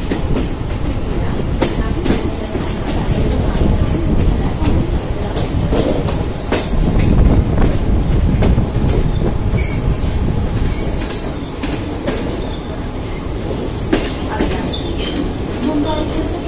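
Train's wheels running over yard tracks and points, heard from on board: a steady rumble with clicks over rail joints and a thin wheel squeal about ten seconds in.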